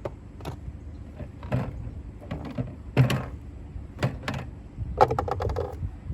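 Plastic car-wash bottles and kit items knocking and rattling as they are taken out of a bucket and handled, with a series of separate knocks and a quick run of rattling near the end.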